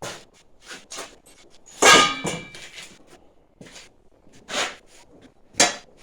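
Metal parts knocking and clanking as they are handled, with one loud ringing clang about two seconds in and a sharper knock near the end.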